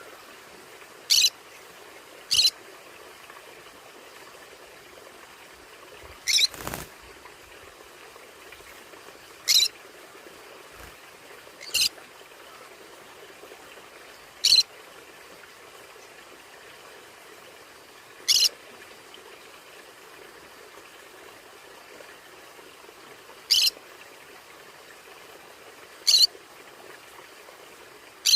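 Conures (small parrots) giving short, sharp, high-pitched calls, about ten of them spaced irregularly a few seconds apart, over a steady faint hiss.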